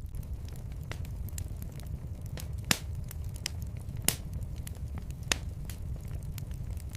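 Wood fire in a fireplace crackling, with scattered small ticks and three louder sharp pops over a low steady rumble.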